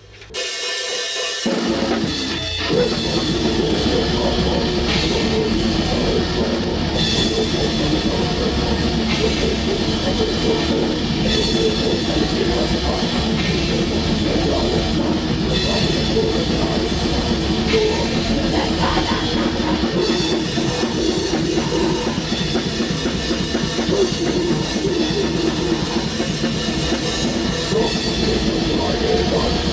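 Black metal band rehearsing: drum kit and electric guitar start up about a second in and play on without a break.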